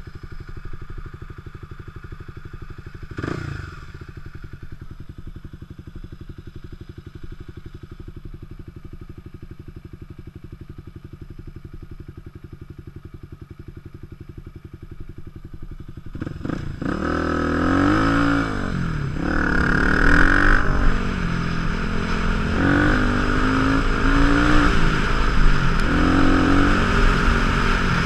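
Supermoto motorcycle engine idling steadily, with a short knock about three seconds in. About sixteen seconds in it revs up and pulls away, louder, its pitch rising and falling as it accelerates.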